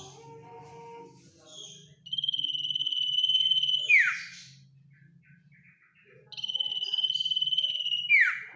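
Common iora (cipoh) singing two long, level buzzy trills of about two seconds each. Each trill ends in a quick falling note. This is the drawn-out 'ngetir' trill that keepers use to call rival birds.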